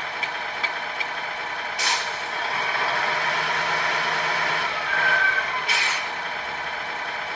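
Sound module of a 1/14-scale RC Scania R620 truck playing a recorded truck engine idling through its small speaker, with two short air-brake hisses, about two seconds in and near six seconds. A short high beep sounds just before the second hiss.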